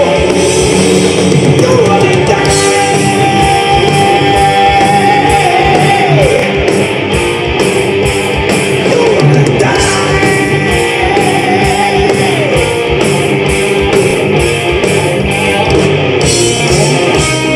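Live rock band playing loud: electric guitar leads with sliding notes over bass and drums, with some singing.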